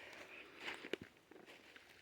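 Footsteps of someone walking, a few soft scuffing steps.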